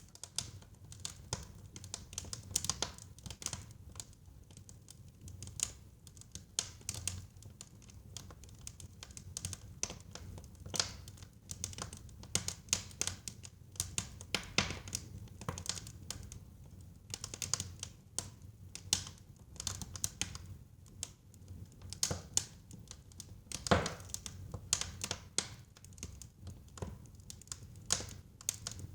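Wood fire burning in a fireplace: irregular crackles and sharp pops over a low steady rumble of the flames, with one especially loud pop near the end.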